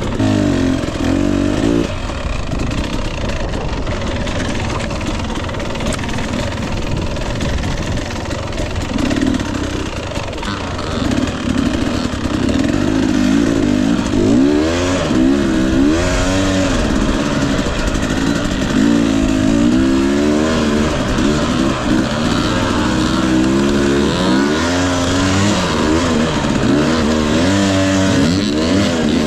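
2021 Husqvarna TE 250i two-stroke dirt bike engine revving up and down repeatedly under throttle on a hard enduro trail. The revving grows busier and louder from about ten seconds in.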